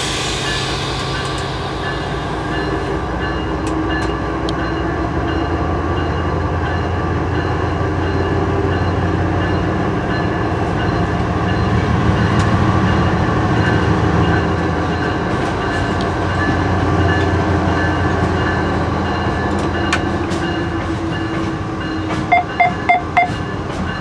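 CSX diesel-electric locomotive running under power while backing a cut of cars into a yard track, its engine drone swelling and easing, with a hiss of air fading out in the first second or two. A little before the end, four short beeps sound in quick succession.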